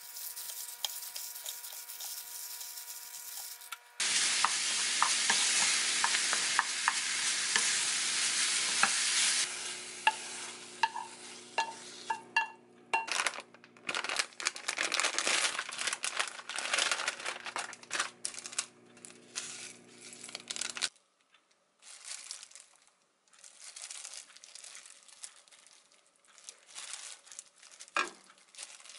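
Crumbled tofu sizzling as it fries in a pan and is stirred, with scrapes and clicks of the utensil. It is loudest a few seconds in. Later comes softer scraping and stirring of the tofu in a bowl with a wooden spoon.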